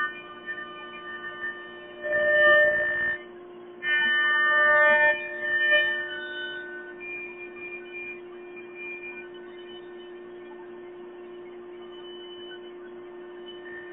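CNC router running: a steady hum from the machine, with higher motor tones that shift as it works and two louder stretches about two and four seconds in.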